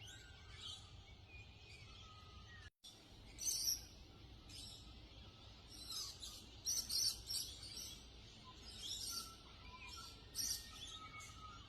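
Dawn chorus of several birds: bursts of high chirps and twitters, with softer thin whistled notes from farther-off birds layered beneath. The sound drops out briefly nearly three seconds in.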